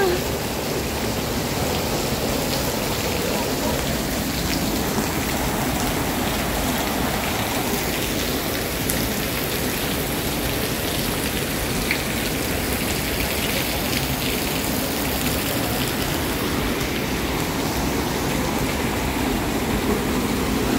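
Steady, even rush of falling water from monsoon rain and runoff, unbroken throughout.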